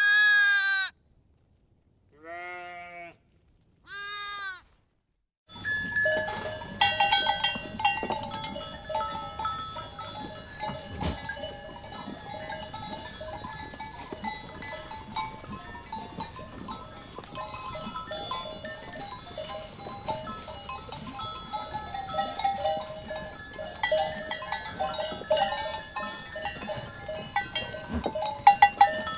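Three separate bleats with a wavering pitch, one after another, with dead silence between them. From about five seconds in, a continuous flock recording follows: many animals bleating, with bells clinking among them.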